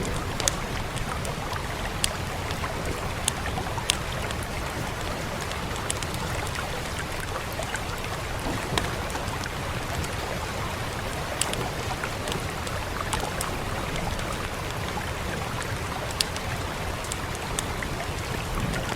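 Steady rain with a low rumble, over a wood fire crackling: sharp single pops every second or two, irregularly spaced.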